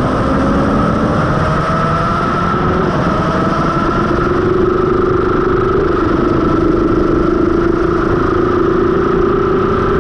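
Suzuki GSX-R750 K5 inline-four engine with a Mivv carbon exhaust, running at fairly steady, moderate revs. The pitch drifts slowly and rises a little midway.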